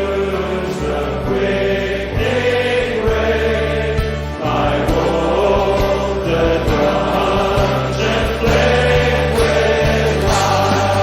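Choral music: a choir singing a slow piece over sustained low accompanying notes that shift every second or two.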